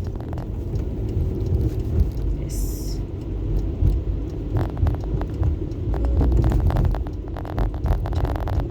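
Car on the road, a steady low rumble of road and engine noise with irregular clicks and knocks over it.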